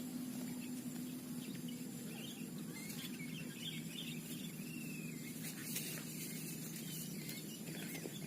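Sooty-headed bulbul chirping, a run of short, quick notes a couple of seconds in, over a steady low hum.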